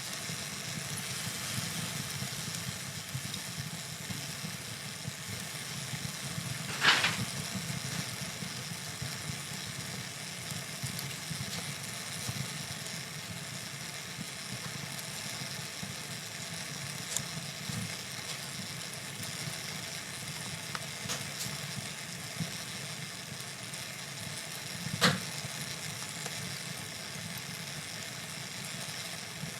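Wood fire burning in a fireplace: a steady low rumble of flames with scattered small crackles, and two louder pops, one about a quarter of the way in and one near the end.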